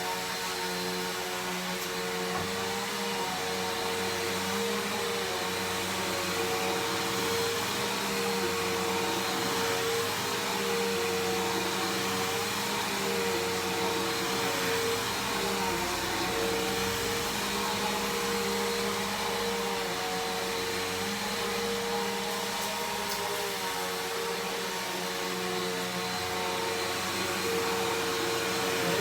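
Bissell PowerForce Helix Turbo upright vacuum cleaner running steadily as it vacuums, with an even motor whine.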